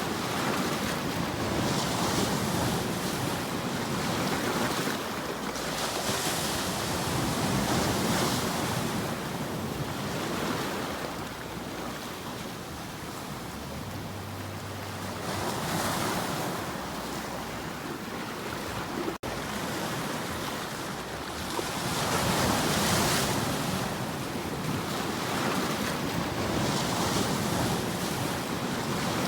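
Sea waves washing in and drawing back in slow, repeated swells, with wind. The sound cuts out for an instant about nineteen seconds in.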